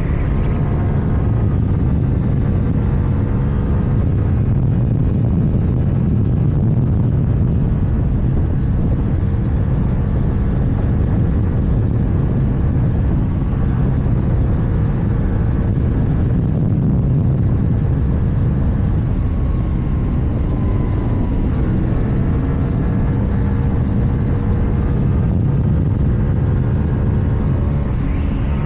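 KTM Duke 790 parallel-twin engine running under way through an Akrapovič exhaust at a fairly steady throttle, its pitch drifting gently up and down, with rumbling wind and road noise.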